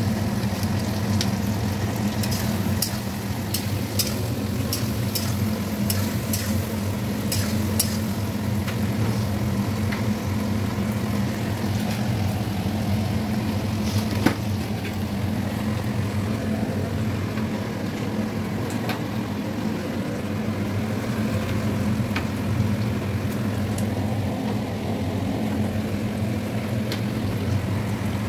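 Diced onion and capsicum sizzling as they fry in oil in a steel kadai, over a steady low hum. A metal spoon clicks and taps a few times in the first several seconds, and there is one sharp tick about halfway.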